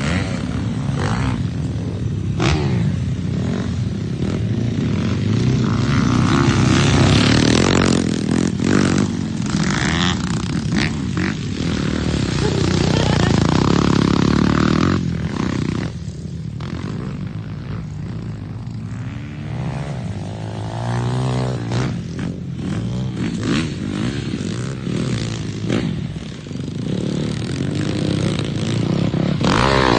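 Dirt bike engines running and revving, their pitch rising and falling as the throttle opens and closes, with scattered short knocks.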